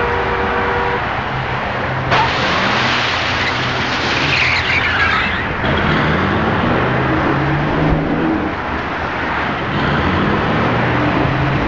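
Loud, continuous rumble of a passing heavy vehicle with shifting engine hum. A horn chord cuts off about a second in, and a high screech rises and falls about four to five seconds in.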